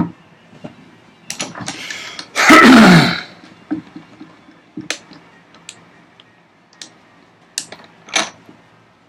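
A man clears his throat loudly about two and a half seconds in, among scattered light knocks and clicks from handling wood and tools.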